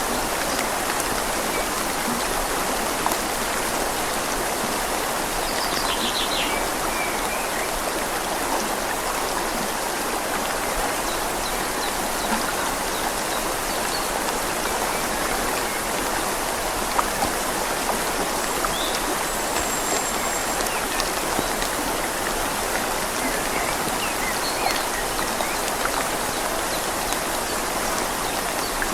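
Steady rain falling on leaves over a flowing river: a constant, even hiss of water with scattered small drop ticks.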